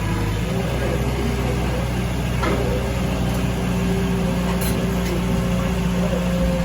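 An engine running steadily at an even speed, with a faint tick about two and a half seconds in.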